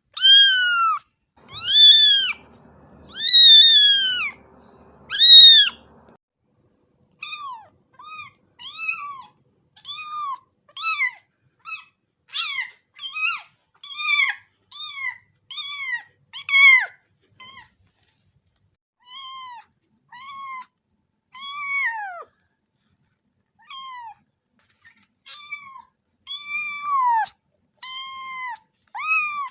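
A cat meowing over and over. It gives four loud, drawn-out meows in the first six seconds, then a run of shorter, quieter, high-pitched meows about one a second, each rising and then falling in pitch.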